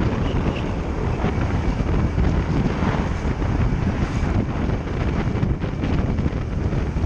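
Steady, loud wind noise rushing over the microphone of a moving motorbike, with the bike's running noise blended underneath.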